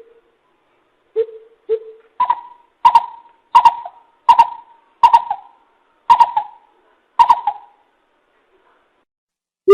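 Coucal (bìm bịp) calling. It gives two low hoots, then a run of about eight higher, evenly spaced hooting notes, and falls quiet near the end.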